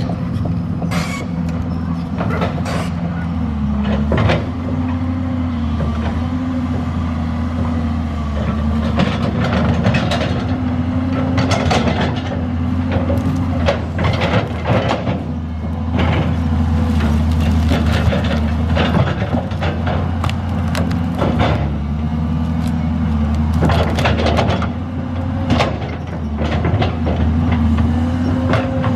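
Large bonfire burning, with frequent crackles and pops over a steady low hum.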